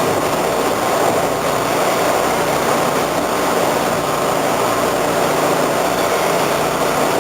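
Steady running noise inside a 1976 Hawker-Siddeley H5 subway car, with the ventilation fan next to the cab making a grinding sound, a noise it makes when the train accelerates.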